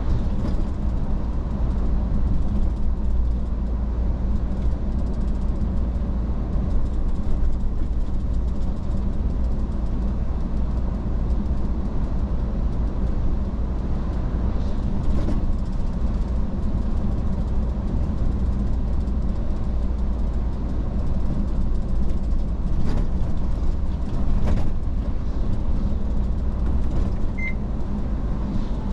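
Iveco S-Way truck driving steadily, its engine and road noise making a constant low rumble, with a few short knocks or rattles along the way.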